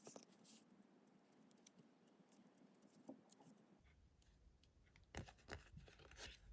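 Near silence with faint scattered clicks and short rustles, a small cluster of them about five seconds in.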